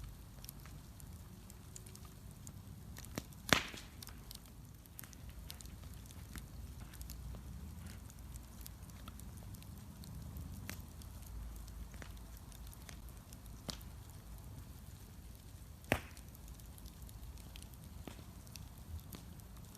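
Wood bonfire crackling, with scattered small snaps over a low steady rumble. Two sharp, much louder pops stand out, one about three and a half seconds in and one near the end.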